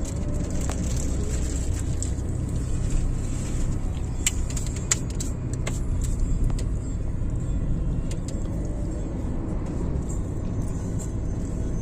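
A steady low rumble, with a few scattered sharp clicks.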